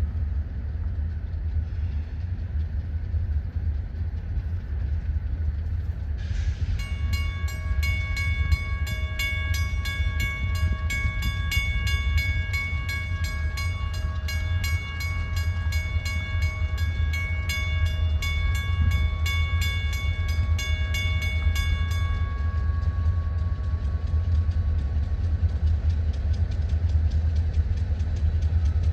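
Wheeling and Lake Erie freight train rumbling past, a steady low rumble throughout. From about six seconds in until about twenty-two seconds, a bell rings rapidly over it, a few strokes a second, then stops.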